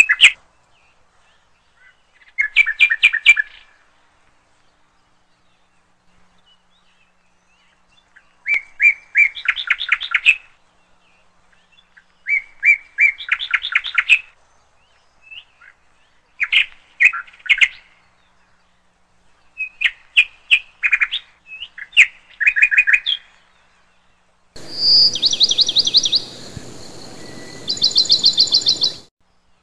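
Bird song: bursts of quick, high chirps, each a rapid run of repeated notes, with quiet gaps between. Near the end two runs sit over a faint steady hiss.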